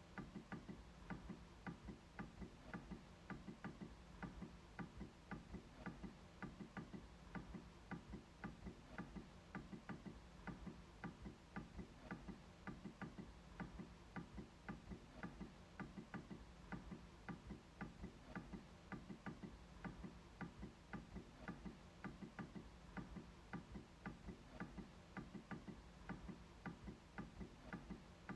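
MacBook trackpad being clicked over and over, faint quick clicks at a few a second, in a fairly even rhythm.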